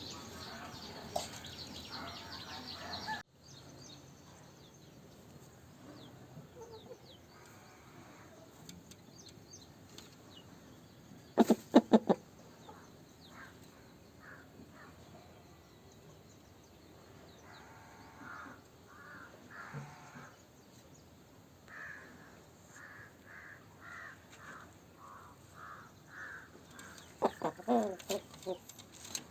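Asil chickens calling: a short loud burst of calls, then a run of brief repeated clucks, with louder calls near the end. The background noise drops off suddenly about three seconds in.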